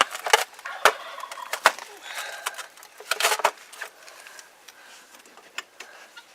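A few sharp metal clinks from work on the truck's wheel hub, and a short rattling burst about three seconds in: a wild turkey gobbling.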